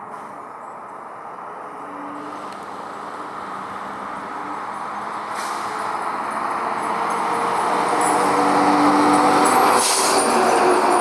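A heavy vehicle approaching, its engine and road noise growing steadily louder to a peak about eight to ten seconds in, with a short hiss near the end.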